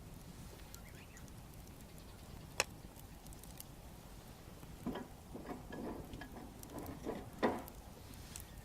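Wood bonfire crackling, with a single sharp pop and, in the second half, a run of short knocks and rustles, the loudest near the end.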